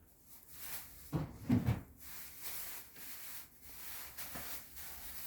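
A puppy gnawing a dog chew bone: a run of short scraping, rubbing sounds, with a few louder knocks at about a second and a half.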